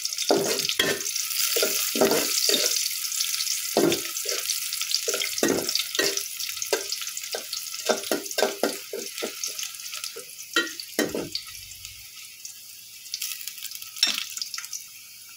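Sliced onions, garlic and whole spices sizzling in hot oil in a metal pot, with a spatula scraping and knocking against the pot as they are stirred. The sizzle is loudest at first and fades; the stirring knocks stop about eleven seconds in.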